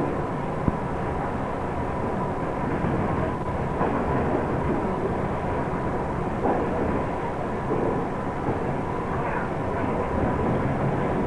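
Steady running noise of a passenger train in motion, heard from inside the carriage, with a thin steady whine over it and one sharp click less than a second in.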